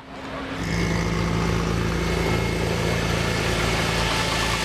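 Car engine running at a steady, unchanging pitch, coming in about half a second in.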